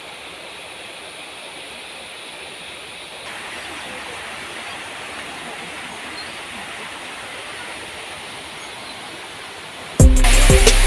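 Steady hiss of outdoor background noise, a little louder from about three seconds in. Loud background music with a steady beat starts suddenly near the end.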